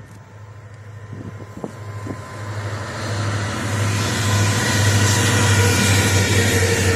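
Diesel-hauled freight train approaching and passing close by: the locomotives' low engine drone grows steadily louder over the first few seconds, joined about three seconds in by a broad rushing noise as the locomotives and wagons roll past.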